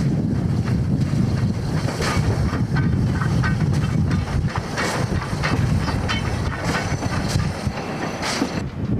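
Metre-gauge train running along the track: a steady low rumble with wheels clicking over rail joints, and a few brief high wheel squeals midway.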